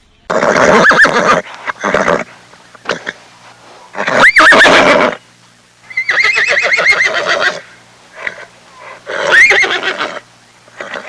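Horse whinnying several times, loud, each whinny quavering and about a second long, with short pauses between.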